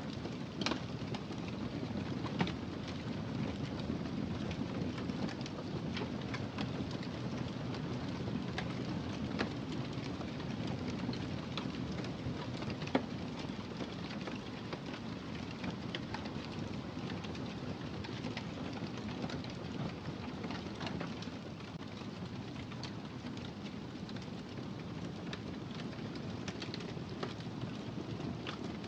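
Wood fire crackling: a steady low rush of burning with scattered sharp pops and snaps throughout, the clearest about a second in, at two and a half seconds and near thirteen seconds.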